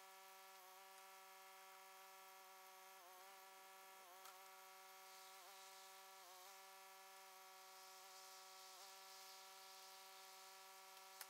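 Near silence with a faint, steady buzzing hum at one constant pitch, wavering slightly now and then.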